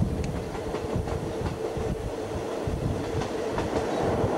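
Passenger train of the State Railway of Thailand running along the track, heard from on board: a steady rumble with the wheels clacking over rail joints and a constant hum.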